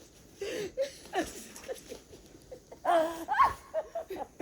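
People laughing and giggling in short bursts, loudest about three seconds in.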